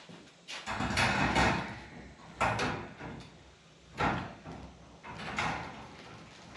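Steel shelf parts knocking and scraping as they are handled and fitted: four or five separate knocks, with a longer scrape about a second in.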